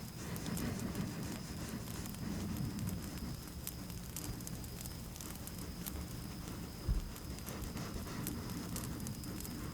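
Campfire crackling with scattered sharp pops, over a steady high cricket trill and a low rumble. A single soft low thump about seven seconds in.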